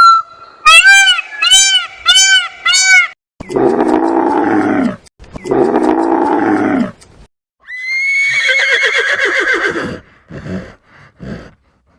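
A run of different animal calls: four short, high, arched cries in quick succession, then two long, lower, rough calls, then a rough call that rises at its start, followed by a few clicks near the end.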